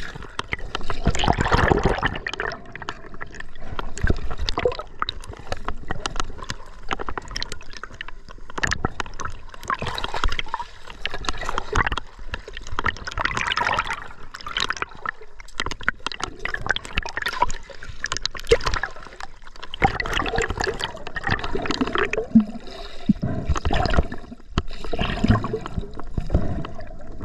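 River water gurgling and splashing in irregular surges, with many small sharp splashes and clicks.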